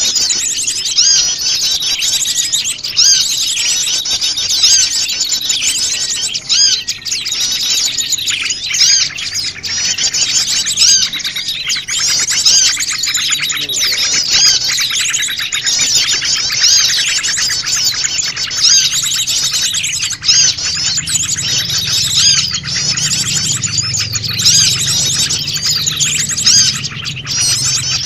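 A dense, noisy chorus of many small wild birds chirping and twittering over one another without a break, a mixed small-bird lure call.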